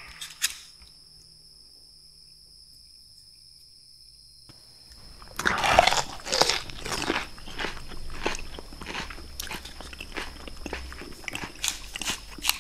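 Close-miked bite into a raw red bell pepper about five seconds in, a loud crisp crunch, followed by rapid crunchy chewing of the firm flesh. A quiet pause comes before the bite.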